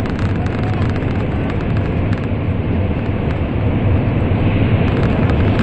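A Shinkansen train running at speed, heard from inside the passenger car: a steady, loud rumble and rush of running noise with a scatter of faint clicks.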